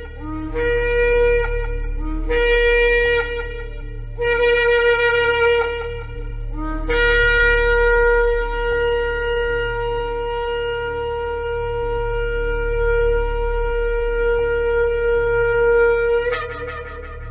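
Shofar (ram's horn) blown in three blasts of about two seconds each, then one long held blast lasting about nine seconds that ends with a brief upward jump in pitch.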